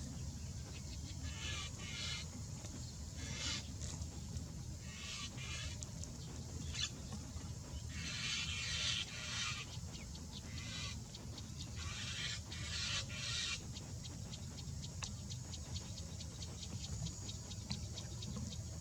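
Birds giving harsh, rasping calls in repeated short bursts, bunched through the first two-thirds, over a steady low rumble.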